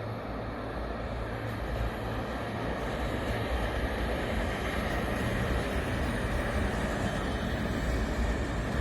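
Train approaching on the line, a steady rumble that slowly grows louder.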